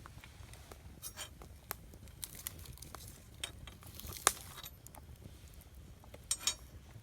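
Wood campfire crackling: scattered sharp pops and snaps over a faint low rumble, the loudest pop about four seconds in and a quick double snap near the end.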